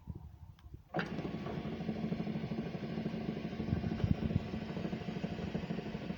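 Bravo 500 sliding gate motor starting up about a second in, then running steadily with a low hum as it drives the gate.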